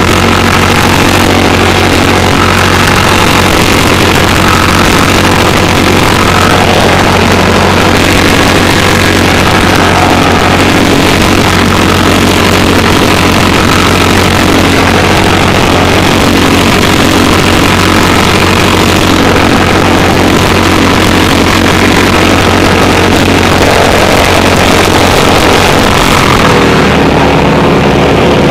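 Fire-brigade water pump engine running steadily at a constant speed during a pump test, its note changing shortly before the end.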